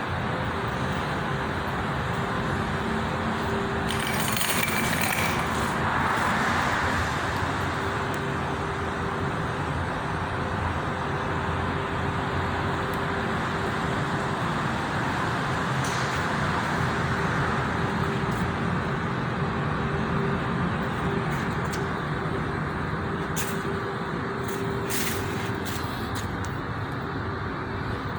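Steady motor-vehicle noise with a constant low hum, and brief hissing sounds about four seconds in and again near the end.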